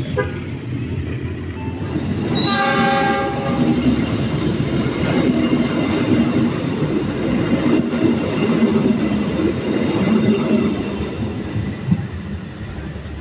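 Pangrango diesel-hauled passenger train passing close by: a horn blast of about a second near the start, then the rumble and wheel clatter of the coaches going past, fading near the end as the train moves away.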